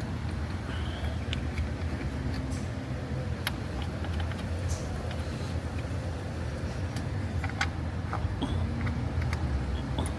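Steady low mechanical hum, with scattered light clicks and taps of small parts and tools being handled.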